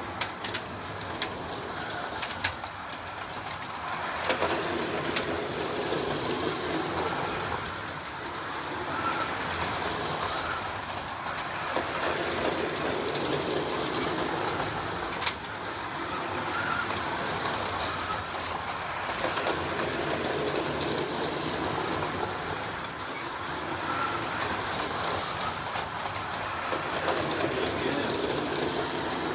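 Carrera Digital 1:32 slot cars running laps on a plastic track, their small electric motors whirring and tyres rolling. The sound swells and fades about every seven seconds as the cars come round, with a few sharp clicks.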